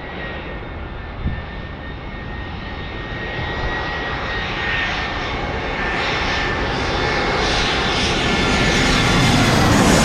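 Jet airliner engines, a dense rushing noise that builds steadily louder, with a thin high-pitched whine riding on top.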